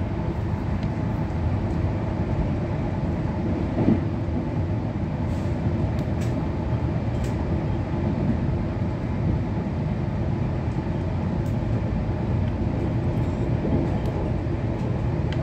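Passenger express train running at speed: a steady, even rumble of the coaches on the track.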